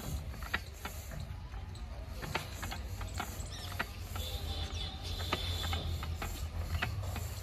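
Lister-type diesel engine with a steady low hum under irregular mechanical clicks and knocks, and a faint high whine from about four to six seconds in.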